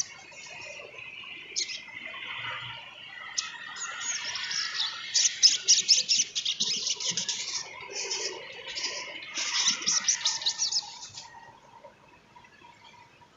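Sunbird (sogon trotol, the olive-backed sunbird) singing a fast, high-pitched chattering song of rapid notes, busiest through the middle and dying away near the end.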